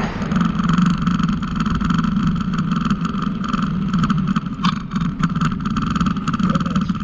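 Steady rumble and wind noise of a bicycle being ridden, with scattered small clicks and rattles from the bike and one sharper click near the middle.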